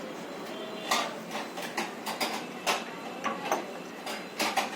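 A run of irregular light clicks and taps, like metal tools and parts being handled during work on a washing machine drum.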